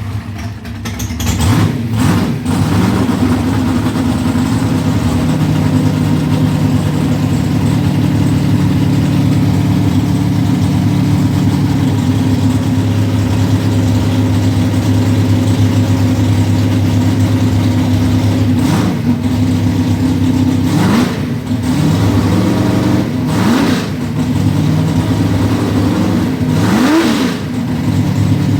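A 548 cubic-inch big-block Chevy V8 on E85 with an 1150 CFM carburetor, idling steadily and still warming up after a cold start, not yet tuned. The throttle is blipped briefly about two seconds in and a few more times near the end, the revs rising and falling quickly each time.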